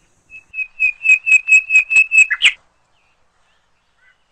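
Hummingbird call: a rapid series of short, high chip notes, about four a second, growing louder and ending in a quick falling note.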